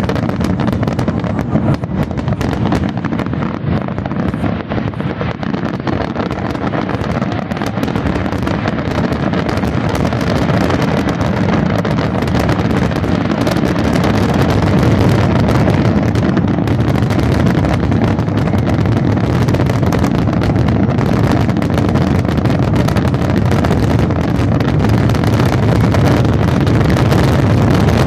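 Fireworks going off in a dense, continuous barrage of rapid crackling reports, growing slightly louder, over a low rumble of wind on the microphone.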